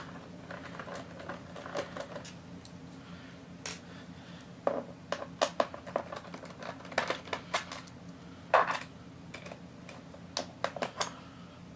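Irregular small clicks and taps of a screwdriver working the screws out of a laptop's plastic base, some in quick clusters, over a faint steady low hum.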